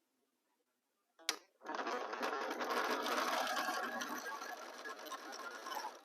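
Sewing machine stitching a seam at a steady fast speed, starting just after a sharp click about a second in and stopping right at the end.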